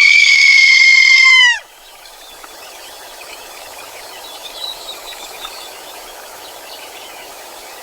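Rooster crowing: the long, held last note of a cock-a-doodle-doo, which drops away about a second and a half in. A steady hiss follows.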